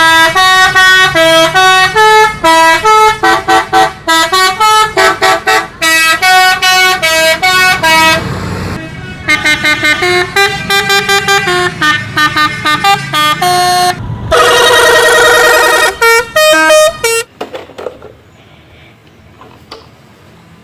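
Multi-tone 'telolet' bus horn honking a quick melody of short notes, with a wavering held note later on. It stops near the end, leaving faint background noise.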